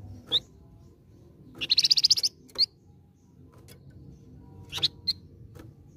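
Flamboyan songbird calling: single sharp high chirps, and a loud fast trill of about a dozen notes around two seconds in.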